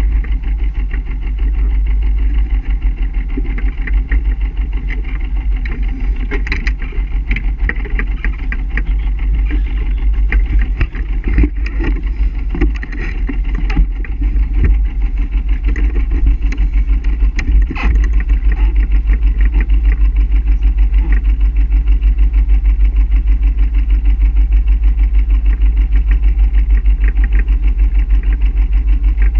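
A sailboat's inboard engine running steadily with an even low throb. Scattered sharp knocks come through in the middle stretch.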